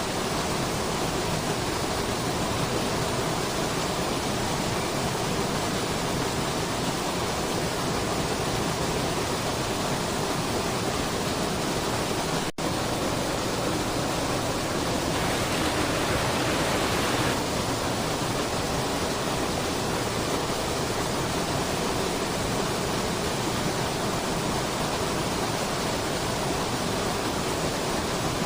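Waterfall rushing: a steady, even wash of falling water. It cuts out for an instant about twelve seconds in, and a few seconds later turns brighter and hissier for about two seconds.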